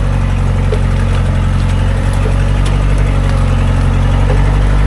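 Loaded logging truck's engine running steadily at idle.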